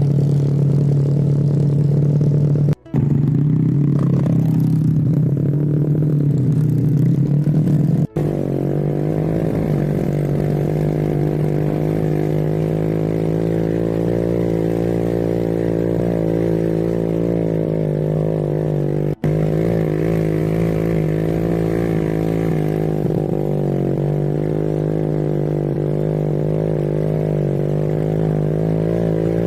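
Motorbike engine running steadily under way. The sound drops out abruptly three times, for a split second each.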